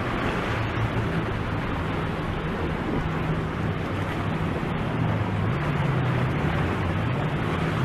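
A boat's motor running steadily, a low, slightly wavering hum under a wash of wind noise on the microphone.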